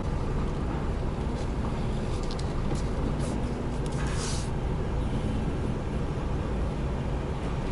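Lorry's diesel engine running steadily at low speed as the truck is slowly manoeuvred, with a short hiss about four seconds in.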